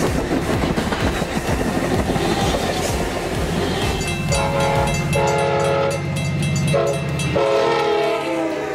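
Double-decker passenger train rolling past with clattering wheels on the rails. About four seconds in, the locomotive horn sounds a chord in four blasts, long, long, short, long, the standard grade-crossing warning.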